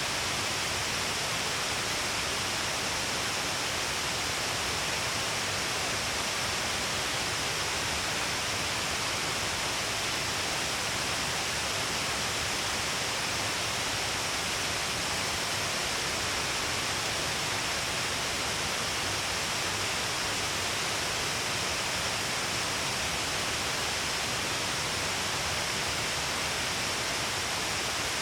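Shiraito Falls, a wide curtain of many falls pouring down a cliff, giving a steady, unbroken rush of falling water.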